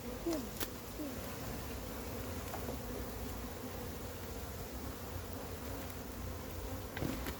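Honeybees from an opened wild colony buzzing in a steady drone, with a couple of faint clicks.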